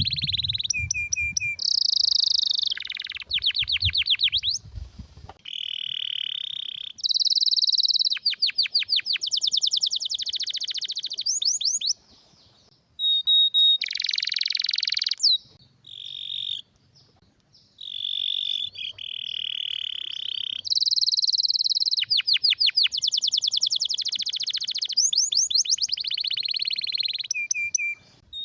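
Domestic canary singing: a long run of phrases, each a fast trill of quickly repeated notes or a steady rolling buzz, changing from one phrase to the next with brief pauses between.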